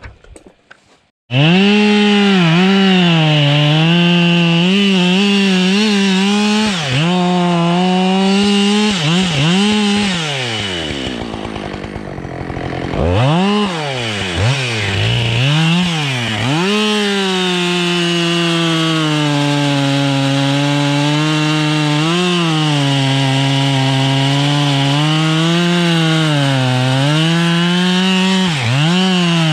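Husqvarna 572 XPG two-stroke chainsaw cutting beech wood at full throttle, its pitch dipping and recovering as the chain bites under load. It starts abruptly about a second in, and about ten seconds in the revs fall off for a few seconds before climbing back into the cut.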